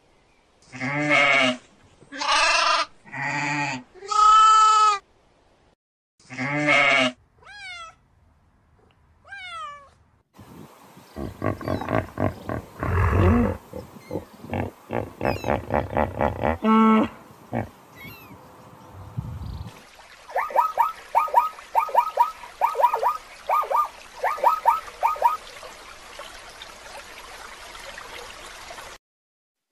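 A series of different animal calls: several pitched bleat- or mew-like cries in the first five seconds, then short falling chirps, a rough noisy stretch with knocks, and a quick run of repeated chirps around the middle of the second half.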